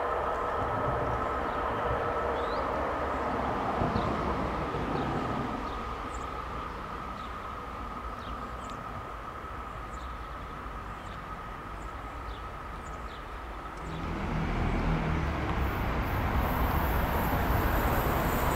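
A train running on the line, a steady rolling rumble with a faint whine that eases off for a while and then grows louder again about 14 seconds in as a train draws nearer. Faint short chirps come through above it.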